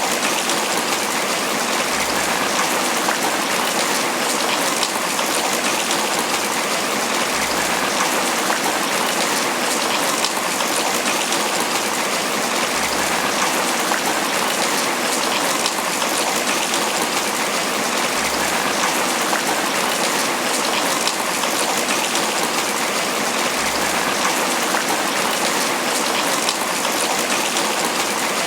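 Steady tropical rain pattering on banana leaves, a dense, even hiss of countless drops.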